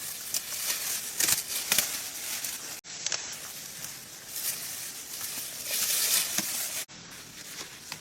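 Dry leaves and plant material rustling and crinkling with small clicks and crackles as they are handled, breaking off abruptly twice.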